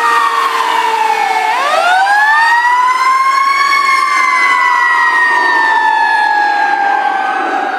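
Fire truck sirens wailing: the pitch falls to a low point about a second and a half in, sweeps up to a peak, then slowly falls again, with a second siren's wail crossing it.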